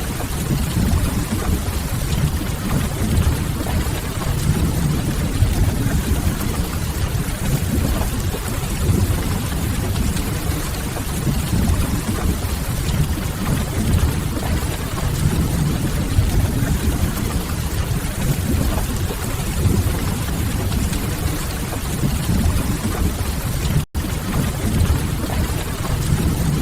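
Steady rain with a deep, low rumble and a few faint crackles from burning firewood, a mixed rain-and-fireplace ambience. The sound cuts out for an instant a few seconds before the end.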